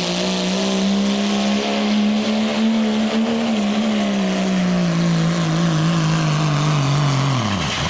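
Turbocharged diesel pickup engine at full throttle pulling a sled, its pitch rising a little, then slowly sagging as the load builds, and dropping away sharply near the end as the throttle comes off.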